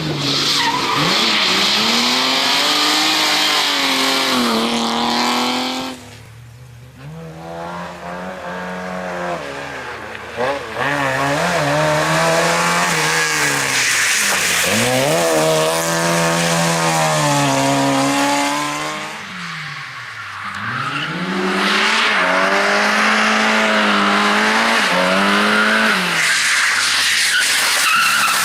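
Competition car engine revved hard, its pitch climbing and falling again and again through gear changes, with tyre squeal as it slides; it drops away suddenly about six seconds in and comes back loud about halfway, easing briefly again near two-thirds through.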